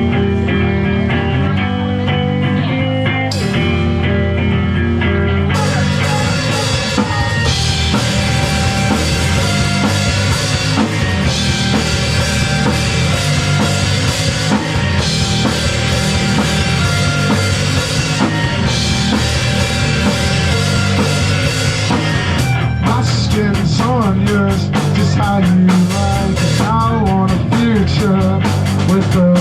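Live rock band playing loudly: guitar and bass alone at first, with the drum kit coming in about five seconds in and the full band carrying on.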